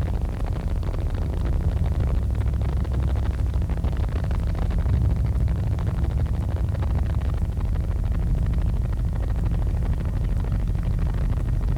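Helicopter engine and rotor noise heard from inside the cabin: a loud, steady low drone.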